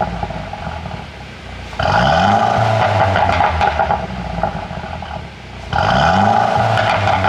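Mercedes-Benz W205 C200's turbocharged four-cylinder engine revved twice, about 2 s and 6 s in, rising sharply in pitch then dropping back, with exhaust pops and crackles on the overrun from a pop-and-crackle tune.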